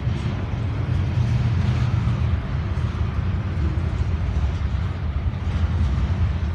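Double-stack container train's well cars rolling past: a steady low rumble of steel wheels on rail, with a few faint clicks.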